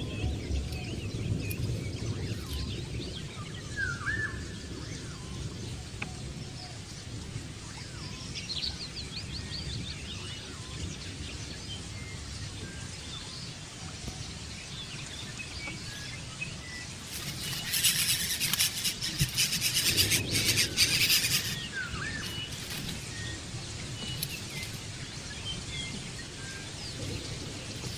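Small birds chirping with scattered short calls over outdoor background noise, and a louder rapid rattling burst lasting about four seconds past the middle.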